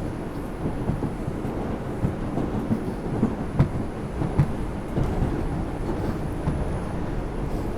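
Ride noise inside an R142 subway car in motion between stations: a steady low rumble of wheels on rail, with a few sharp knocks around the middle.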